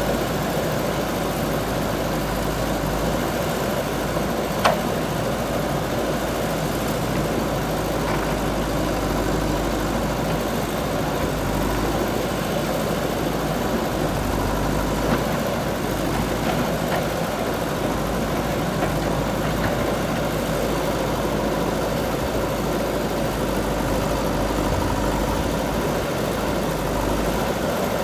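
JCB 3DX backhoe loader's diesel engine running steadily, with a sharp knock about five seconds in.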